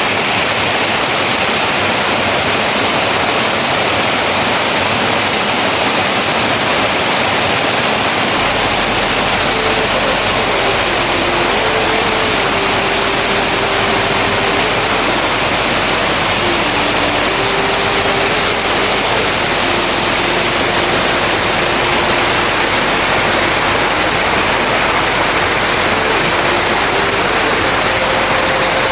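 Heavy rain falling steadily, a dense, unbroken hiss of water.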